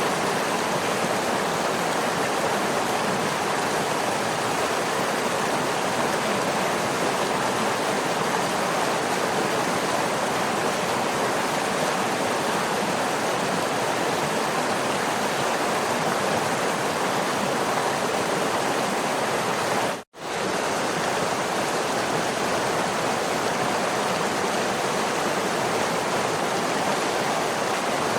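Waterfall: a steady, dense rush of falling water, cutting out for a split second about twenty seconds in.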